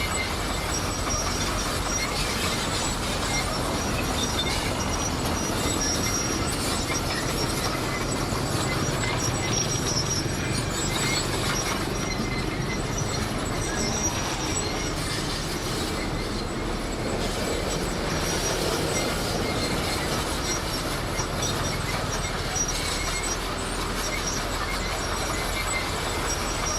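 Komatsu D58 crawler bulldozer working, its diesel engine running steadily under the clank and rattle of its steel tracks, with a faint high squeal coming and going.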